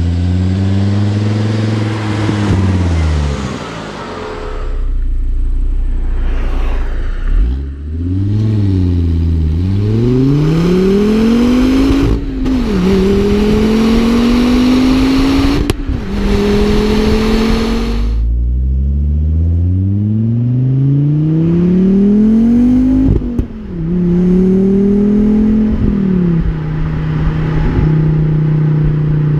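Volvo V70 R's turbocharged inline five-cylinder engine and catback exhaust pulling hard through the gears. The pitch climbs and drops sharply at each upshift, three times, with lift-off stretches where it falls away. It settles to a steady cruise near the end.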